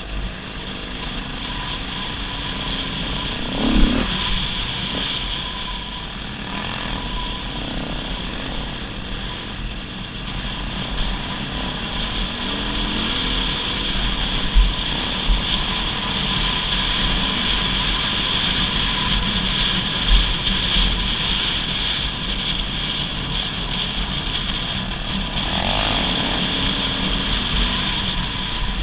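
Dirt bike engine running while riding, its pitch rising and falling with the throttle twice, with irregular low buffeting on the microphone.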